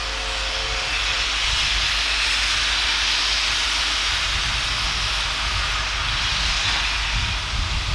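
Steam locomotive letting off steam in a loud, steady hiss. The last of its whistle fades out about a second in.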